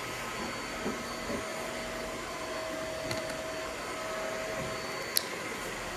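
A barber's handheld electric tool running steadily with an even motor noise, a faint steady tone through the middle, and a single sharp click about five seconds in.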